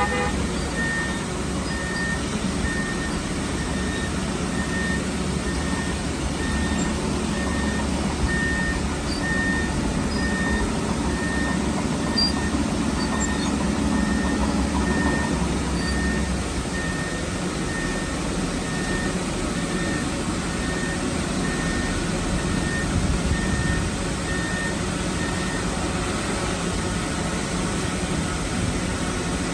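Heavy diesel construction machine running with a low steady rumble, its reversing alarm beeping about once a second at one pitch and stopping a few seconds before the end. The rumble is heavier through the first half.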